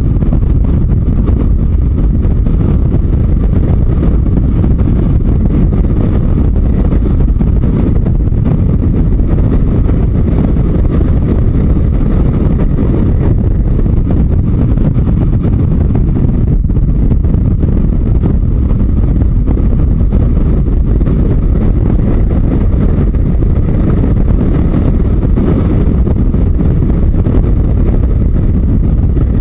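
Yamaha XJ900 Diversion's inline-four engine running at road speed under a steady rush of wind and road noise, with a brief dip about two-thirds of the way through.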